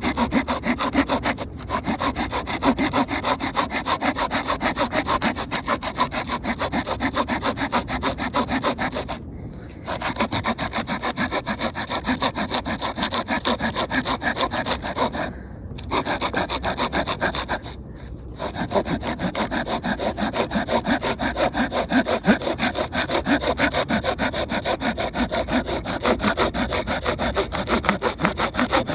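Hand saw cutting through wood for the campfire in quick, even back-and-forth strokes, stopping briefly three times.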